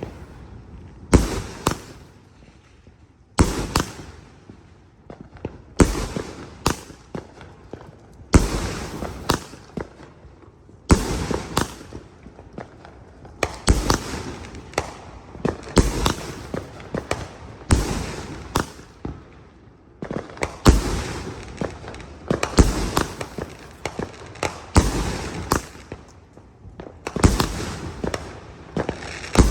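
A 300-shot consumer firework cake firing: clusters of sharp, loud reports about every two seconds, each cluster dying away before the next volley.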